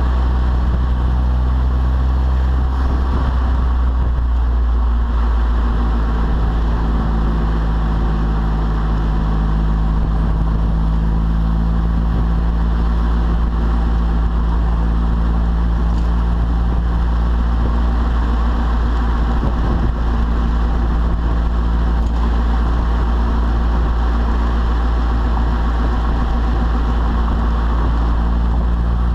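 Volkswagen Passat 1.8T turbocharged four-cylinder running steadily through a straight 3-inch test pipe, Magnaflow glass pack and Borla Pro XS muffler, with a deep low exhaust rumble. The engine note shifts slightly about five seconds in, then holds.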